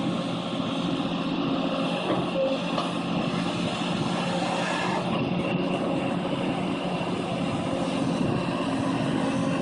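Engine of a tractor working a compaction wheel over a pipe trench, running steadily at a constant speed.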